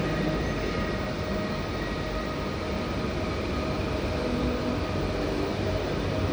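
A train running on the rails: steady, even noise with a few faint steady tones above it.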